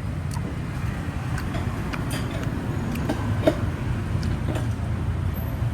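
Steady low rumble of street traffic, with scattered light ticks and a sharper click about three and a half seconds in.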